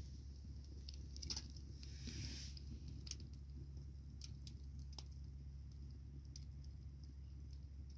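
Wood bonfire crackling: scattered sharp pops and snaps over a steady low rumble, with a short hiss about two seconds in.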